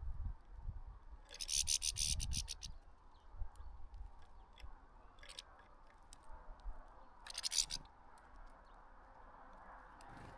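European goldfinches at a bird feeder: scratchy rustling and clicking of birds moving and pecking, with two bursts of rapid strokes, one about a second in and a shorter one about seven seconds in, and scattered single clicks between.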